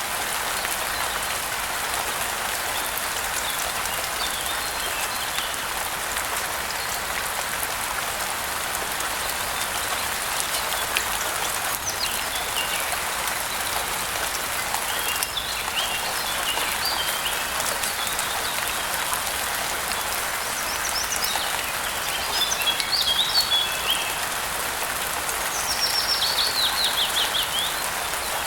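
Steady rain falling, an even hiss throughout. Birds chirp intermittently over it from about halfway in, and near the end one sings a quick run of falling notes.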